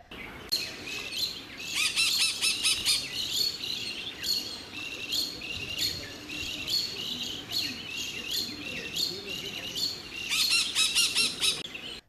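Birds chirping in a busy chorus of short, high, repeated notes, densest in the first few seconds and again near the end.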